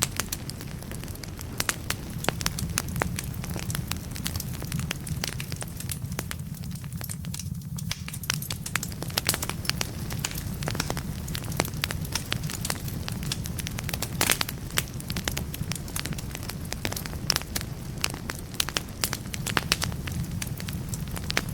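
Wood fire burning in a fireplace: a steady low rumble with frequent sharp crackles and pops from the burning logs, which thin out briefly about seven seconds in.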